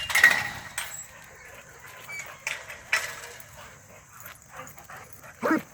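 A dog barking and whimpering, with a loud burst of noise just after the start and a short pitched bark near the end.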